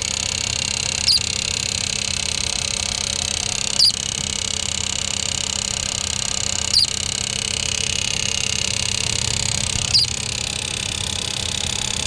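Idling car engine with a short, high, bird-like chirp that drops in pitch, repeating four times about every three seconds. The chirp is suspected to come from the gearbox, not the AC.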